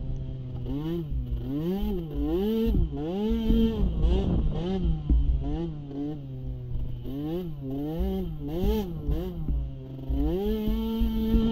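Small youth racing ATV engine, its pitch rising and falling in quick repeated swings as the throttle is worked on and off, then climbing and holding steady at a higher pitch near the end.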